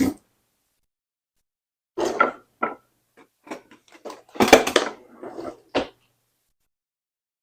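Kitchen handling noises: a sharp knock at the start, then short bursts of clattering and knocking about two seconds in and again, louder, about four and a half seconds in.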